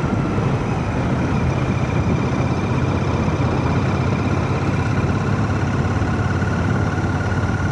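Royal Enfield Shotgun 650's parallel-twin engine running at a steady cruise, with wind and road noise, heard from inside a full-face helmet.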